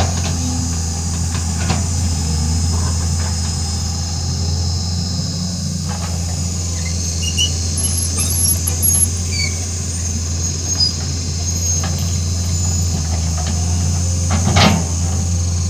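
Excavator engine running steadily with a low hum, with scattered high squeaks and a few knocks, the loudest a sharp clank near the end.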